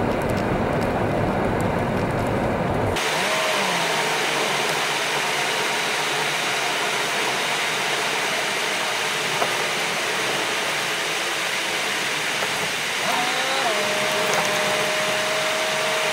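Low road rumble inside a car cabin that cuts off suddenly about three seconds in, replaced by a steady loud rushing hiss with a faint whine that rises and then holds near the end.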